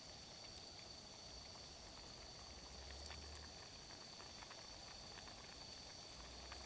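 Near silence: faint outdoor ambience with a steady high-pitched hum and a few scattered faint clicks.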